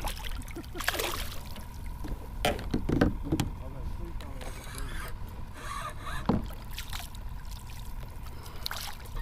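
Scattered knocks and rubs of gear against a kayak's hull, with a steady low background noise.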